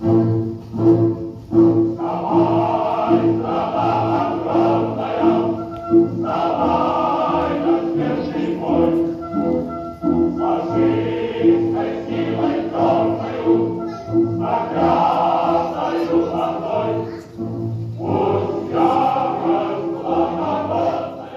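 A choir singing a song, held notes over a steady low accompaniment, starting abruptly and stopping abruptly.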